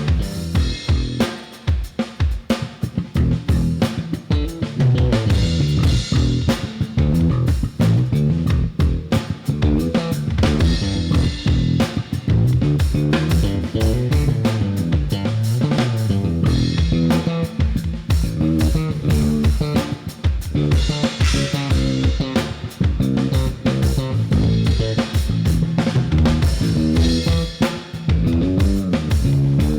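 A band plays an instrumental passage of a Khmer pop song, with drum kit, guitar and a walking bass line and no singing.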